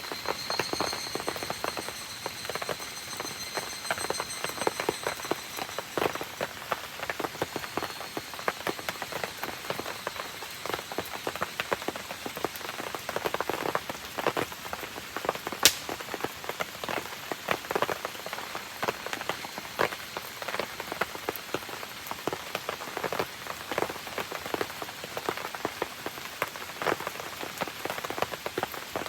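Steady rain pattering, mixed with the dense crackling of a wood campfire. A faint high whistle sounds for the first several seconds, and one sharp pop about halfway through is the loudest moment.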